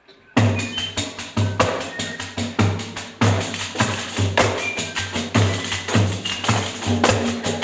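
Pandeiros, Brazilian frame drums with jingles, played together in a fast, steady rhythm. Low thumps of the drumheads sound under the rattle of the jingles, starting suddenly about half a second in.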